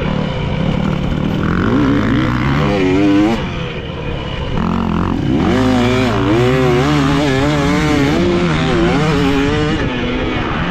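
Dirt bike engine on a motocross track, revving up and down as the throttle is worked, its pitch rising and falling over and over. The throttle eases off briefly about three and a half seconds in, then the bike pulls hard again.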